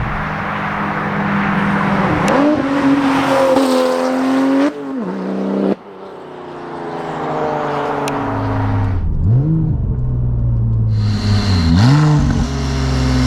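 Porsche 996 911 Turbo's twin-turbo flat-six through an aftermarket titanium X-pipe exhaust, driven under load: the engine note rises and falls several times as it revs, with a sharp drop about six seconds in.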